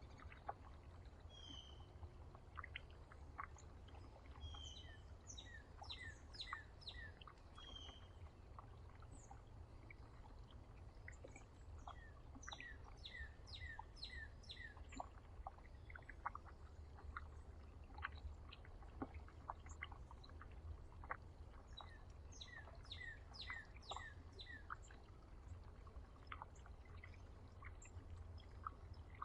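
Small songbirds chirping in several quick runs of short, falling high notes, with scattered soft clicks and a faint low steady rumble behind.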